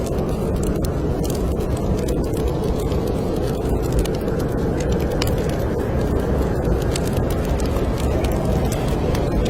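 Snowstorm wind making a steady low rumble, with a wood fire crackling over it in scattered sharp pops and snaps.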